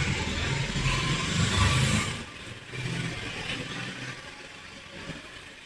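A motor vehicle's engine running close by, loudest for the first two seconds and then fading away.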